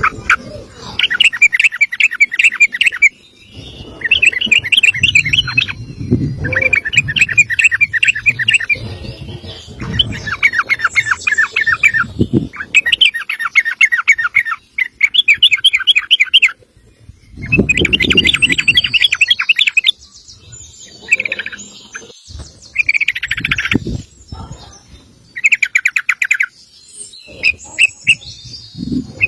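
A male yellow-vented bulbul (trucukan) singing a long rapid warble: bursts of quick, fast-repeated chattering notes, each about one to two seconds long, again and again with short pauses between.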